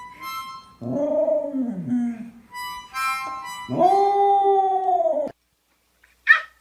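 A dog howling in long howls that rise and fall in pitch, with higher, steady musical notes sounding between the howls. A short, sharp sound comes near the end.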